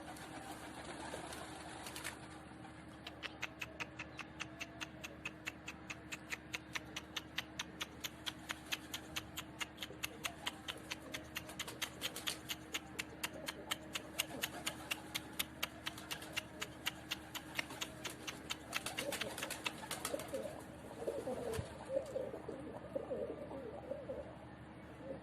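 Domestic pigeons cooing, loudest near the end. A rapid, regular ticking at about four a second runs through most of it and stops a few seconds before the end.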